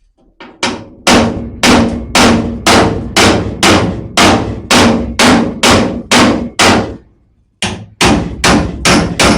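Hammer blows on sheet steel being shaped into a repair patch, each strike ringing, about two a second. There is a short pause about seven seconds in, then a quicker run of blows.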